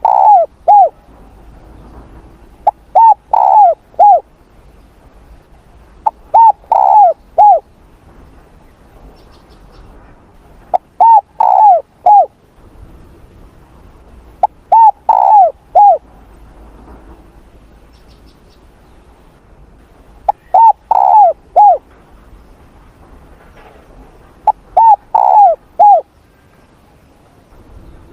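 Spotted dove cooing: a phrase of three or four coos, the longer ones falling slightly in pitch, repeated about every four seconds, some seven times.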